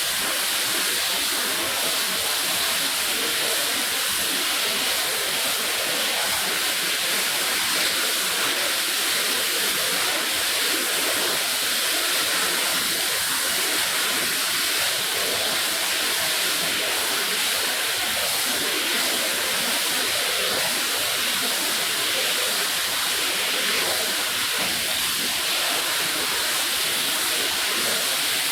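Steady hiss of a pressure-washer water spray rinsing a wet rug, even and unbroken.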